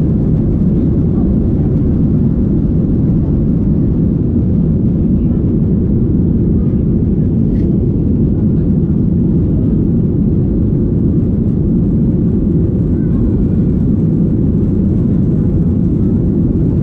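Steady low rumble of a Boeing 737-800's CFM56 jet engines and airflow heard inside the passenger cabin, even and unchanging.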